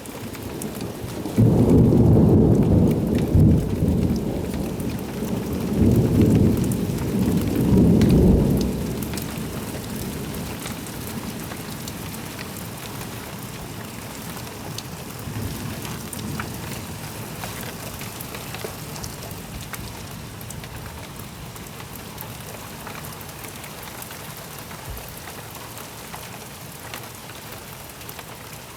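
A thunderclap breaks suddenly about a second and a half in and rolls on as a deep rumble with two or three swells, fading after about eight seconds. Steady rain on surfaces goes on underneath and continues after the thunder dies away.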